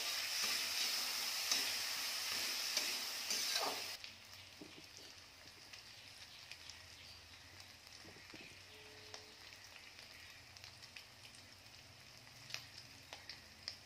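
Wet spice masala frying in hot oil in an aluminium kadai, sizzling loudly as it is stirred with a spatula. About four seconds in, the sizzle drops suddenly to a quiet frying hiss with scattered small pops.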